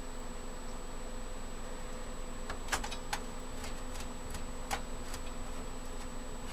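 A few light metallic clicks and taps of hardware being handled inside a computer case, over a steady electrical hum with a faint high whine.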